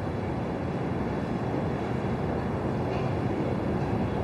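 Steady low rumbling background noise with no distinct events, of the kind heard in a moving vehicle or in wind.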